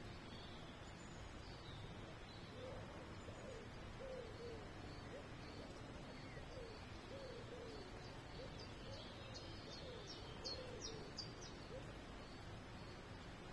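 A bird calling a long run of short, soft, low hooting notes, about two a second, with a few quick, high chirps near the end.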